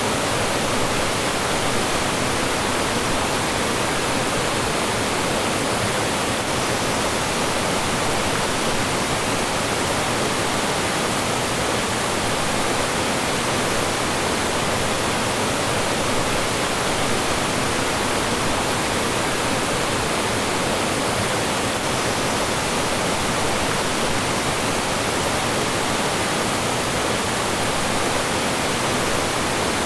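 Mountain stream rushing steadily over rocks and small falls, a dense, unchanging hiss of flowing and falling water.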